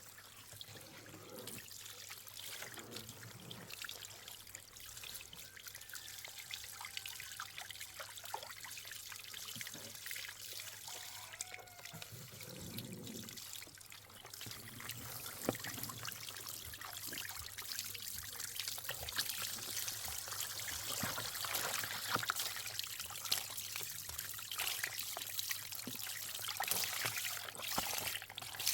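Water trickling and pouring, with many small splashes and clicks, growing louder and busier about halfway through.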